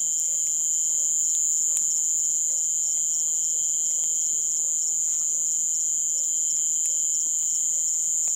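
Crickets chirping in a dense, unbroken, high-pitched night chorus.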